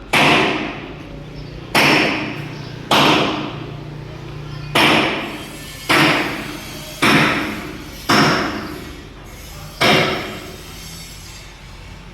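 Hammer blows on steel, eight heavy strikes at roughly one-second intervals, each ringing out before the next.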